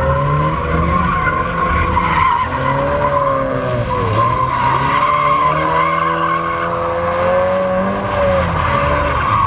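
A car's tyres screeching continuously while its engine revs hard, its pitch rising and falling with the throttle, as in donuts or a burnout.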